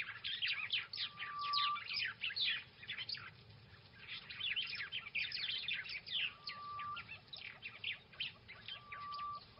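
Birds chirping: dense flurries of quick, falling chirps, with a short steady whistle repeating every few seconds.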